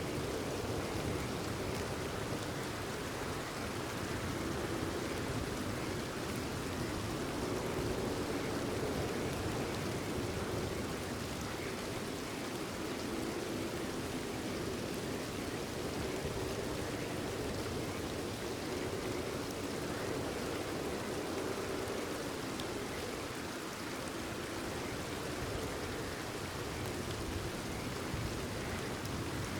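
Steady, continuous rainfall, an even hiss of rain on surfaces with no let-up.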